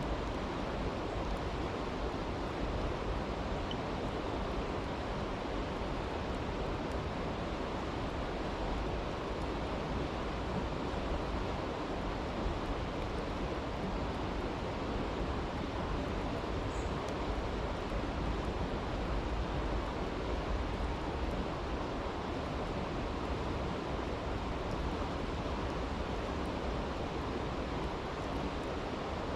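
Steady rushing of a creek, with a few faint crackles of a campfire scattered through it.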